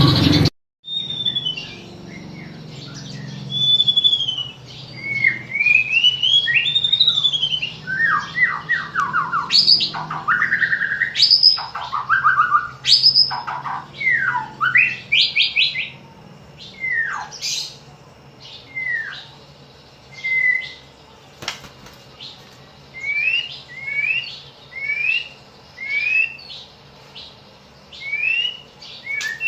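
White-rumped shama (murai batu) singing: a varied run of clear whistles that slide up and down, mixed with fast trills, in short phrases with brief pauses. A louder, different sound cuts off abruptly in the first half second.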